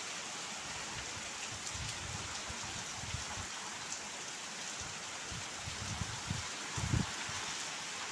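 Heavy rain pouring steadily onto a puddled yard, a continuous hiss. Low gusts of wind buffet the microphone a few times about three-quarters of the way through.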